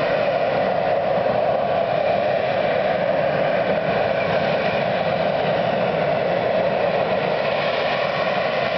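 BAE Sea Harrier's Rolls-Royce Pegasus turbofan running steadily, a loud continuous jet noise with a faint steady whine above it.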